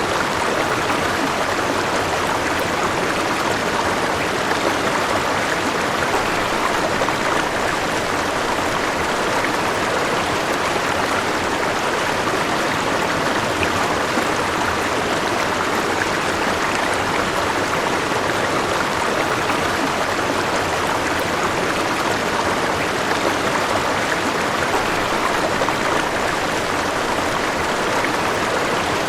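River water flowing over rocks, a steady, even rush of running water.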